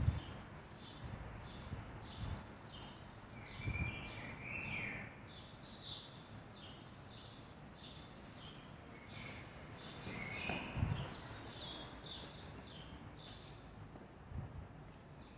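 Small birds chirping outdoors: a steady series of short, high chirps about two a second, with a few lower, slightly falling notes about four seconds in and again about ten seconds in. A few low bumps are heard under them.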